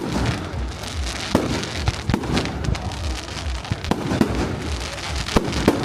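Fireworks display: a continuous run of bangs and crackling pops over a steady low rumble, with the sharpest reports about a second and a half in, about two seconds in, and near the end.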